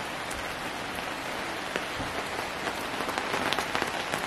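Steady rain falling, an even hiss with many small drop ticks, somewhat thicker past the middle.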